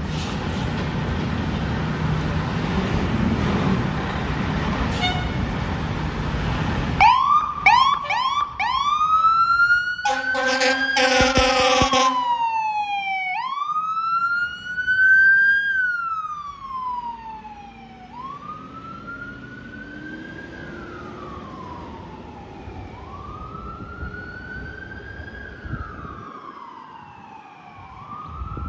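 Fire apparatus responding: a heavy truck engine rumbles, then about seven seconds in a siren starts with several quick rising whoops. Air horn blasts follow for about two seconds, and the siren then settles into a slow wail, rising quickly and falling slowly, growing fainter as the trucks pull away.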